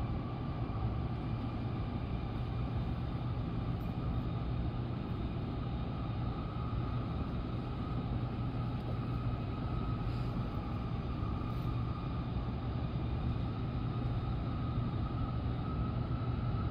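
N700S Shinkansen train heard from inside the passenger cabin while running at speed: a steady low rumble with a faint whine that rises slowly in pitch.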